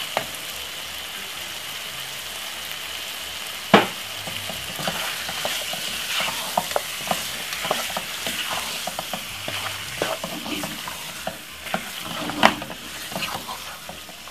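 Chicken sizzling steadily in hot oil in a cooking pot, with a spoon scraping and clinking against the pot as it is stirred through most of the middle. A single sharp knock about four seconds in is the loudest sound.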